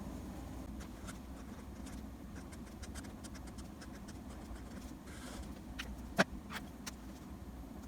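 Light scattered taps and ticks of a drawing tool on its surface, with a brief scratchy stroke about five seconds in and one sharper tap about a second later, over a steady low hum.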